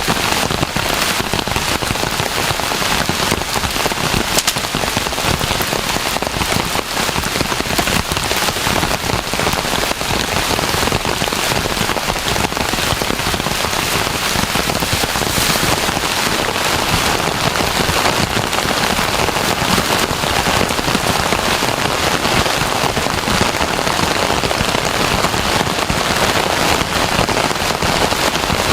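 Heavy rain pouring steadily, a dense patter of drops hitting a surface.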